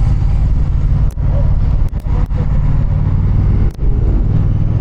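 Motorcycle engine running steadily under way, a heavy low rumble heard from the bike itself. The sound dips out briefly a few times.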